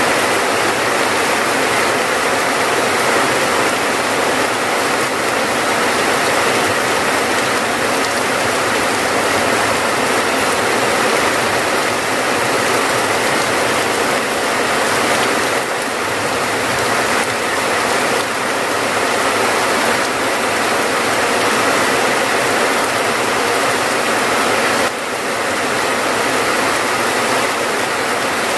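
Steady rain, a dense, even hiss of countless falling drops with a brief small dip in level near the end.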